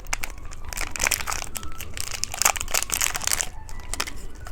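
Plastic candy wrapper crinkling and crackling as it is handled, with a dense stretch of crinkles in the middle that thins out near the end.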